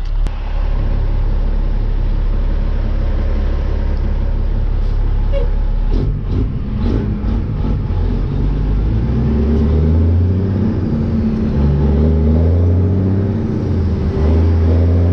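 Loaded dump truck's diesel engine running low and steady, then revving up as the truck pulls away, its pitch climbing and dropping back in steps through the gears. A few clicks and knocks come about six seconds in.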